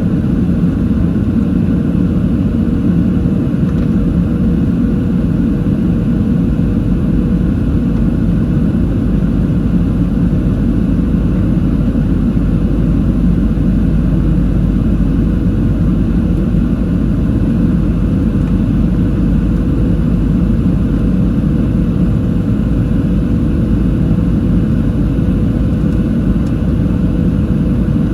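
Steady cabin noise of a Boeing 737-700 in flight: a constant low rumble from the CFM56-7B engines and rushing air, with a faint steady hum.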